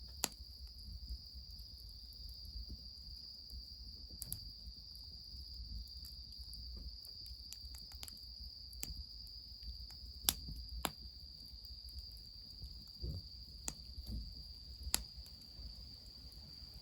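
Insects trilling in one steady high drone, with irregular sharp pops and cracks from a wood fire, the loudest about ten seconds in, over a low rumble.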